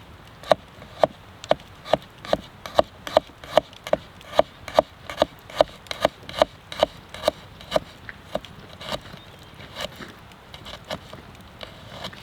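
A steady series of sharp knocks with a short ring, about two and a half a second, thinning out and growing fainter after about eight seconds.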